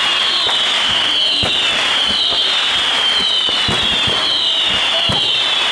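Fireworks going off: a steady run of high whistles, each falling in pitch and starting again about once a second, with scattered sharp pops and crackles.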